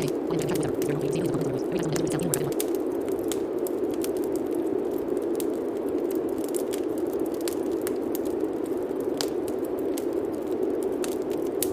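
Steady rain, with many scattered drops clicking and pattering. A faint low voice murmurs under it for the first couple of seconds: affirmations masked beneath the rain.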